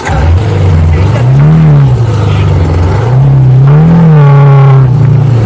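Vehicle engine revving up and easing off twice, its pitch rising and falling each time, loud and close.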